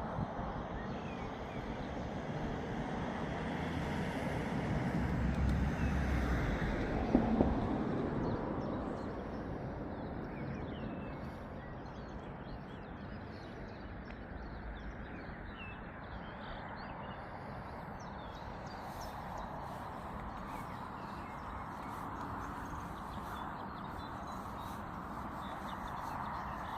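Outdoor background noise that swells with a low rumble for a few seconds, peaking with a brief sharp double knock, then settles back to a steady hush, with faint scattered bird chirps throughout.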